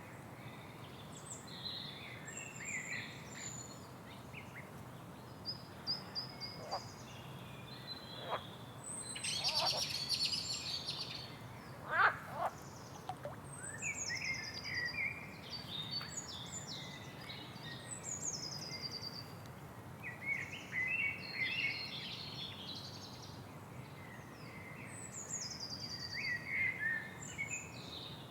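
Several wild birds calling and chirping, with repeated quick high notes falling in pitch and a louder flurry of calls around ten to twelve seconds in, over a steady low background rumble.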